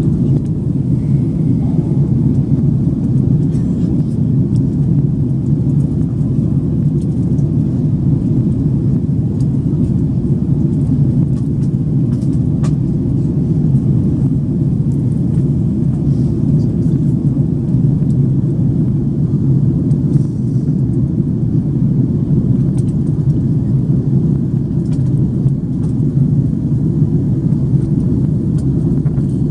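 Steady cabin noise inside an Airbus A330-300 airliner in flight: engine and airflow noise as an even, low rumble that holds unchanged throughout.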